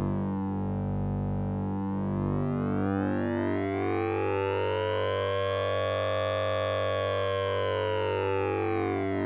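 Synthesizer sound effect from the Orange Vocoder plugin, a sync and ring-modulated tone: a steady low drone under a stack of metallic overtones. The overtones sweep slowly upward from about a second in, peak around six seconds in, and glide back down near the end, like a slow siren.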